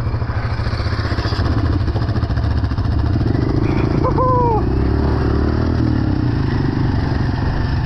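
Off-road motor vehicle engine (ATV or dirt bike) running at low revs as it is driven slowly, getting a little louder around the middle.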